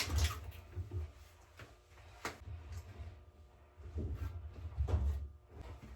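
A few knocks and bumps of things being handled, with a sharp click a little past two seconds in and heavier low thumps near the start and again around four to five seconds in.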